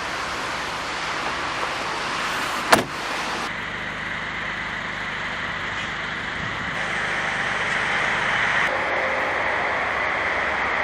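Steady car noise with a single sharp click about three seconds in.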